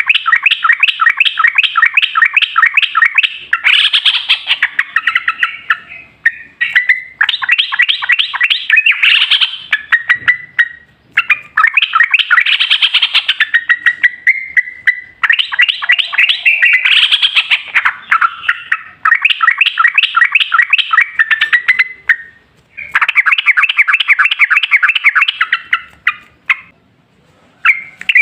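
Yellow-vented bulbul calling in long, rapid rolling runs of repeated notes, about four or five a second, in several bouts with brief pauses between them.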